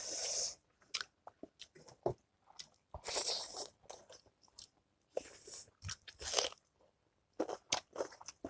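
Close-miked mouth sounds of a person eating pork pickle with a meal: crunching and chewing with scattered sharp clicks, and a few short hissing sounds.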